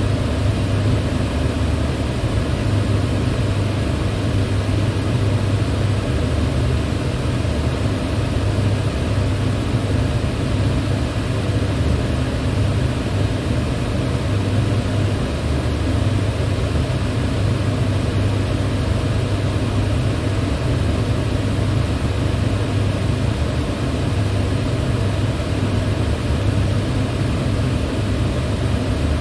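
Electric fan running steadily: an even rush of air over a constant low hum, with no change in speed.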